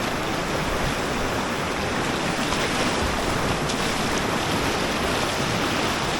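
Steady rush of a fast-flowing mountain river's whitewater.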